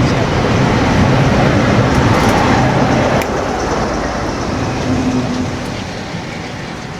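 Loud rumble of a passing train, steady at first and then fading gradually as it draws away.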